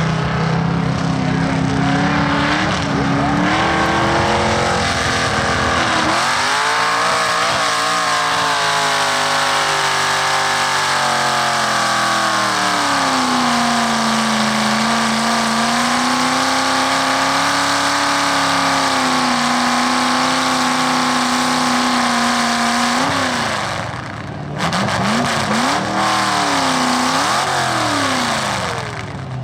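Big engine of a tractor-tire mud bog truck running hard at high revs, its pitch wandering and sagging under load. About 23 seconds in the revs drop sharply, followed by several quick blips of the throttle.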